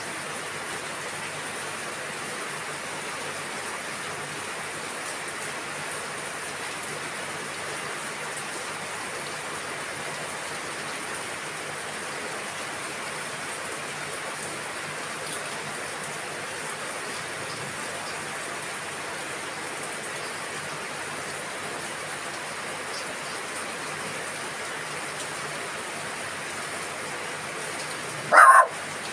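Steady rain falling, an even hiss of drops. Near the end a single short, loud sound cuts through it.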